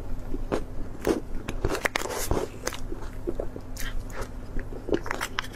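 Close-miked eating sounds: chewing a mouthful of cream-and-fruit dessert, with irregular wet mouth clicks and small crunches.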